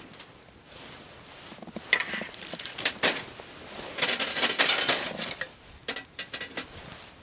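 Metal camp cookware and utensils clinking and knocking together. There are scattered sharp knocks, one ringing briefly about two seconds in, then a busier clatter of clinks about four to five seconds in.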